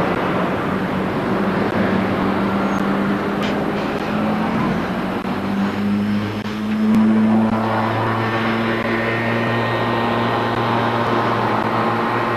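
Diesel locomotive engine running steadily with a droning note. About six seconds in the note shifts and a deeper tone joins it, as the engine's load or speed changes.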